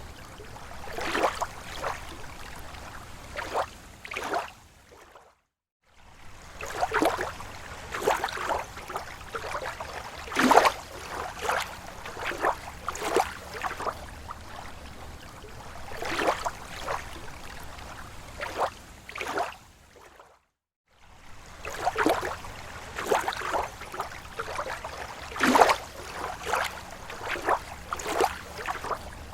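Small waves lapping against a lake shore: irregular slaps and splashes of water coming in loose clusters. The sound cuts out completely twice, for under a second each, about five seconds in and again about twenty seconds in.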